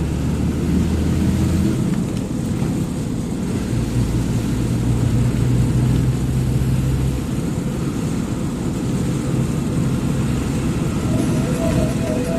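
Truck engine and road noise heard from inside the cab while driving: a steady low rumble whose pitch shifts a couple of times as the engine speed changes.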